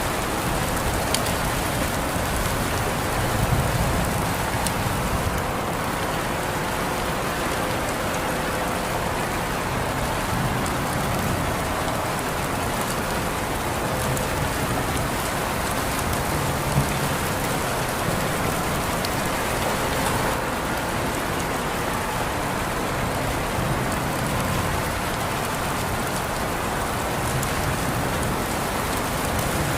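Steady rain falling and pattering on surfaces, with a few individual drops ticking.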